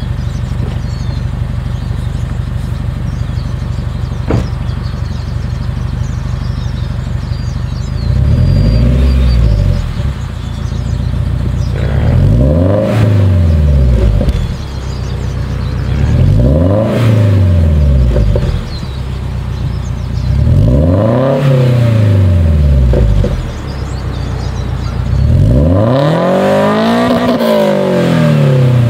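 Toyota GT86's 2.0-litre flat-four boxer engine, heard from the exhaust, idling steadily and then revved five times. Each rev climbs and falls back to idle over two to three seconds, and the last one, near the end, is the longest.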